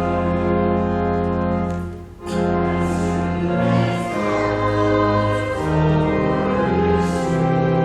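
A congregation singing a hymn in held notes over sustained instrumental accompaniment, likely an organ, with a brief break between lines about two seconds in.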